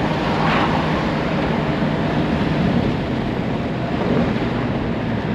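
1970 Ford Mustang convertible cruising steadily at about 50 mph with the top down: a low, even engine hum under steady road and wind noise.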